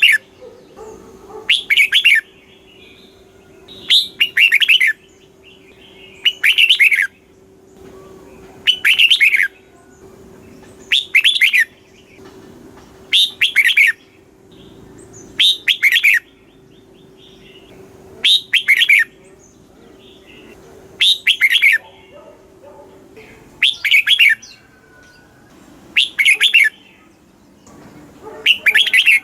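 Red-whiskered bulbul singing short, bright, chirpy song phrases over and over, one about every two seconds. This is the type of song played to caged bulbuls to get them worked up.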